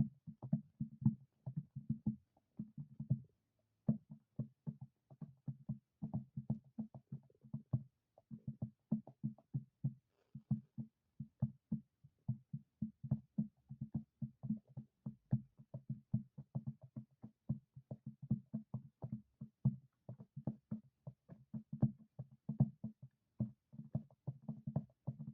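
Punches landing in a jab session: rapid, uneven runs of dull thumps, several a second, with a short pause a few seconds in.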